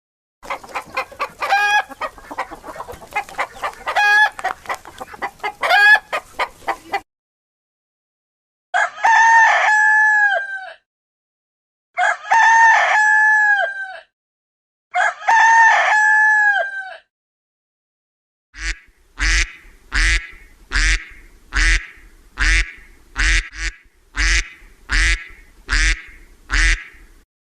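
Chickens clucking in a rapid run of short calls, then a rooster crowing three times, each crow about two seconds long. A series of about a dozen short, evenly spaced calls follows near the end.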